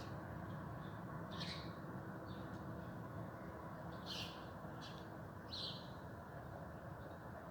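Songbirds calling back and forth in short, high chirps, a few scattered calls with a cluster in the middle, over a steady low background noise.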